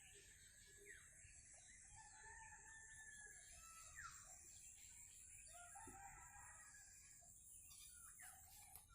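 Faint rooster crowing, with short chirping bird calls over a steady high hiss.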